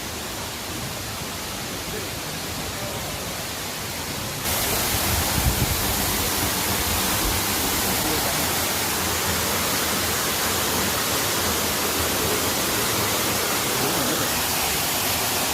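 Waterfall pouring: a steady rushing roar of falling water that gets louder about four and a half seconds in.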